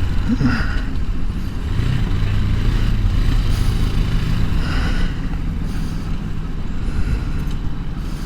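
Bashan Brozz 250 dual-sport motorcycle's engine running steadily under way, its pitch shifting slightly as the speed changes, over a low rumble of road noise.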